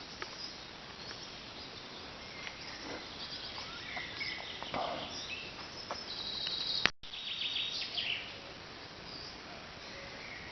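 Quiet forest ambience: a faint steady background with scattered bird chirps and a little insect sound. A sharp click with a momentary dropout about seven seconds in.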